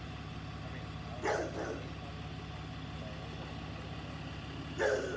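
A vehicle engine idling steadily, with two brief louder sounds, one about a second in and one near the end.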